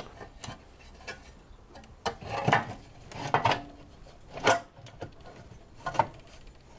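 Light clinks and knocks, scattered irregularly, as a cover is handled and fitted back over the points and flywheel of a vintage Villiers two-stroke chainsaw engine.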